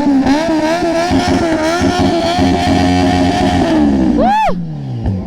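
Motorcycle engine revved: held at high revs with a wavering pitch, dropping back down, then a quick throttle blip that rises and falls about four seconds in.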